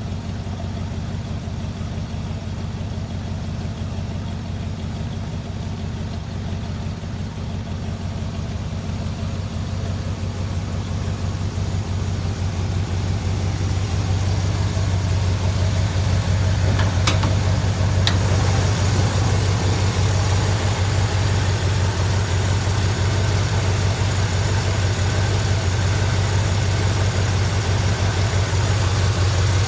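1969 Chevrolet C30 truck engine idling steadily with a low hum, growing gradually louder over several seconds before levelling off. Two brief clicks sound close together about two-thirds of the way in.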